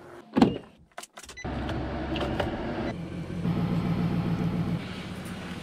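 A vehicle engine catches about a second and a half in and idles steadily.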